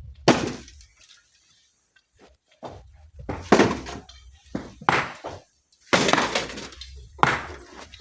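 Rocks being struck and handled: about half a dozen irregular, sharp crashing impacts, with a brief lull between about one and two and a half seconds in.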